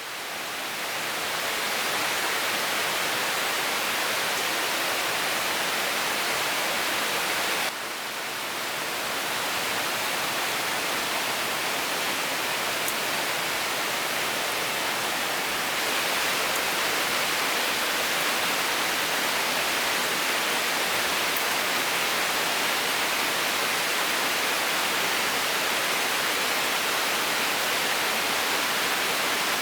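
Heavy rain falling steadily, a dense even hiss that swells up at the start and dips briefly about eight seconds in.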